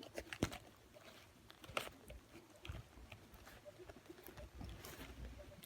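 Retriever puppy gnawing on a dog chew: scattered wet clicks and small crunches of teeth on the chew, with a few sharper ones.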